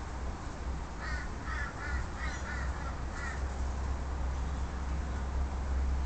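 A bird calling outdoors: about six short, harsh calls in quick succession, starting about a second in and lasting about two seconds.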